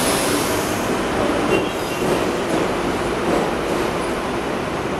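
Double-deck Sydney Trains electric train running past along the platform, a steady rumble of wheels on rail. A brief, faint high wheel squeal comes about one and a half seconds in.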